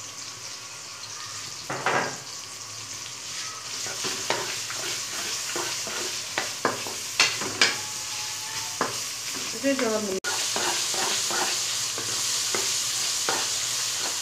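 Sliced onions and garlic frying in hot oil in a karahi, a steady sizzle, with a wooden spatula scraping and knocking against the pan as they are stirred. The sizzle is louder from about ten seconds in.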